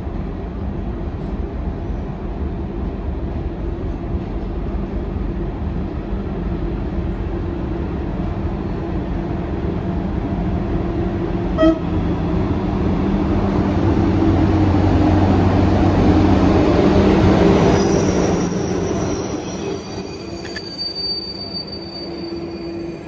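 A locomotive hauling passenger coaches approaches and runs past alongside the platform, growing louder to a peak about three-quarters of the way through. Its wheels then squeal in high, steady tones near the end. A steady low hum sits underneath throughout, and there is one brief sharp crack about halfway.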